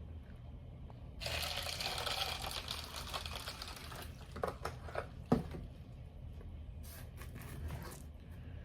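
Packaging crinkling and rustling as it is handled for about three seconds, followed by a few light clicks and one sharp tap a little after the middle.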